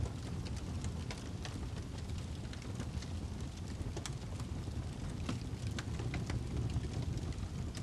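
Wood fire burning in a fireplace: a steady low rumble with frequent sharp crackles and pops from the burning log.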